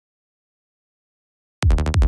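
Silence, then about one and a half seconds in, a synthesized electronic bass starts playing from the music software: a run of rapid, sharp repeated notes with a deep low end.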